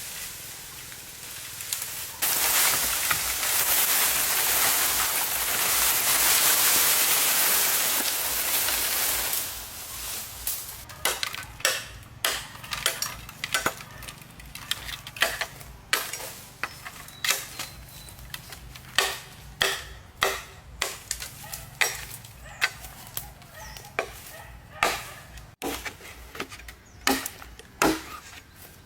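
A loud steady hissing noise for several seconds, then a run of sharp chopping strikes, roughly one a second.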